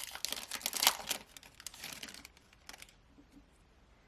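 Crinkly rustling of a foil trading card pack wrapper and cards being handled. It dies away after about two seconds, leaving a few light clicks.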